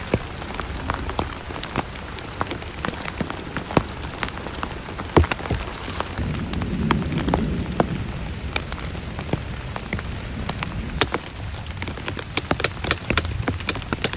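Heavy rain falling, with many individual drops tapping sharply on a nearby surface. A low rumble swells briefly about halfway through, and the drop hits come thicker and sharper near the end.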